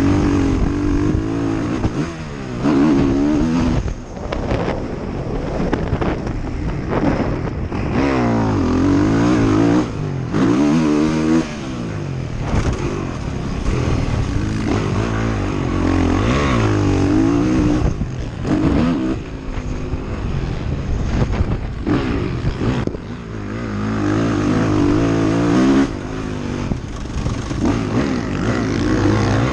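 ATV engine under riding load, revving up and easing off again and again, its pitch climbing and dropping with the throttle.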